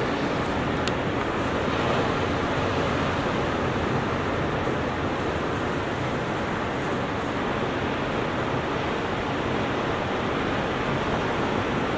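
Ocean surf washing steadily onto a beach: a continuous rushing noise with no single breaks standing out.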